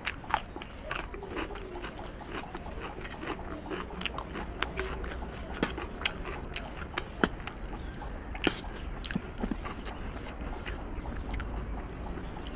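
Close-miked eating sounds: crunchy bites of a raw onion slice and wet chewing of Maggi instant noodles, with many sharp, irregular crunches and mouth clicks.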